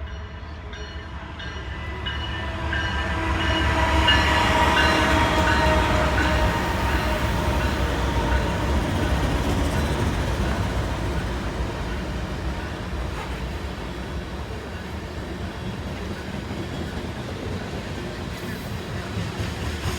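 A train rolling past, swelling to its loudest about four to six seconds in and then slowly fading to a steady rumble. A steady high ringing tone sounds over the first several seconds and dies away.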